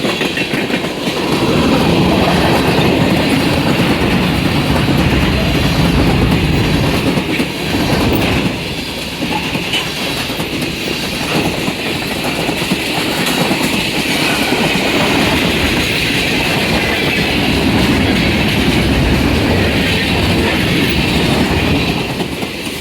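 Freight cars of a long, fast mixed-freight (manifest) train rolling past at speed, loud and steady, with a brief dip about eight seconds in.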